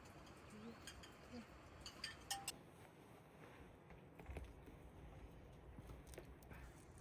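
Near silence with a few faint clicks.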